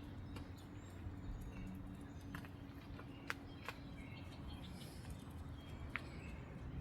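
Birds chirping faintly: a few short, scattered chirps over a low steady hum.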